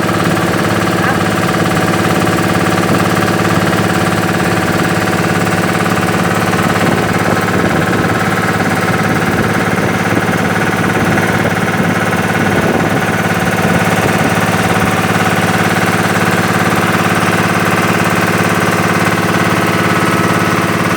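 Boat engine running steadily at a constant speed, a loud, unchanging drone.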